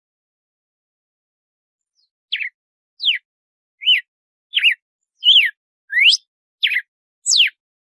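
Red-cowled cardinal (galo-de-campina) singing its 'açoite' song: starting about two seconds in, a run of eight clear, loud whistled notes, a little more than one a second, each a quick sweep down or up in pitch.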